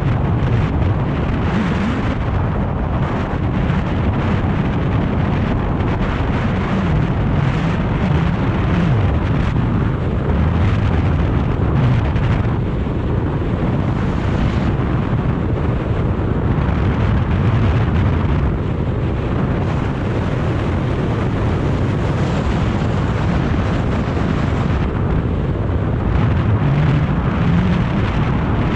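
BMW R 1250 GS boxer-twin engine running under way, its note rising and falling as the revs change, under heavy wind noise on the microphone.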